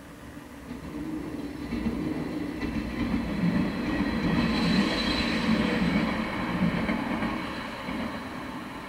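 A train passing by on the rails: its running noise builds from about a second in, is loudest around the middle, then fades away near the end.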